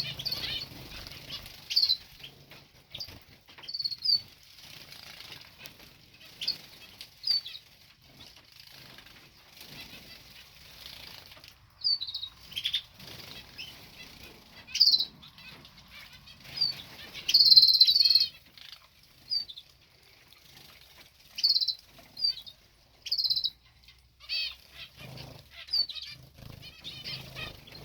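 Small aviary birds bathing, wings fluttering and splashing in fits and starts, with short high chirps scattered throughout. One louder flurry comes about two-thirds of the way through.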